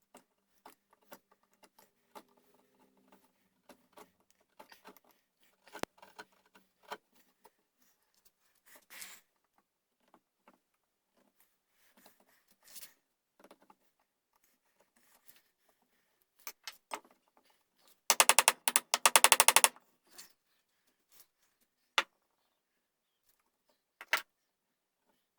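Scattered light clicks and taps of hand tools working wood while a buttplate is inletted into a gunstock, with a loud rapid rattle lasting under two seconds about two-thirds of the way in and a couple of sharp single clicks near the end.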